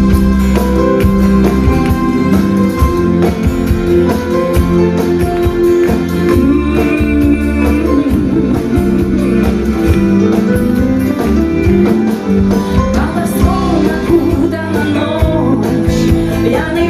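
A rock band playing live: the instrumental opening of a song, with steady bass notes, guitar chords and a regular drum beat.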